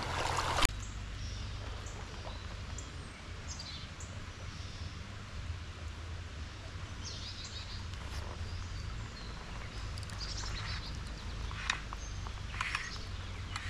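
Small birds chirping in short, scattered calls over a steady low rumble. In the first second a louder rush of stream water cuts off abruptly.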